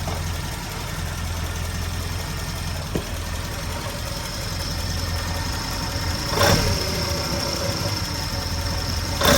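1980 Triumph Spitfire 1500's four-cylinder engine idling low with a rattle, with two louder sharp knocks, one about two-thirds through and one at the end. The rattle comes only below about 900 rpm; ignition, water pump, alternator and a loose pulley have been ruled out, and the owner suspects a cause inside the oil pan.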